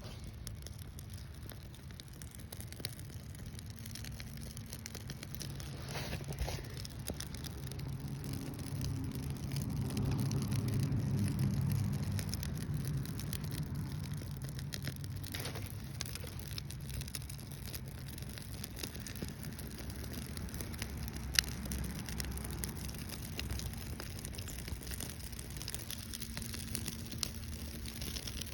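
Birch bark fire starter and small kindling burning: a steady low rumble of flame that swells for a while, with scattered crackles and a single sharp pop about two-thirds of the way through.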